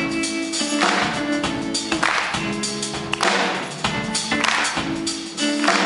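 Live band playing an instrumental passage: sustained chords with a drum beat striking roughly once a second.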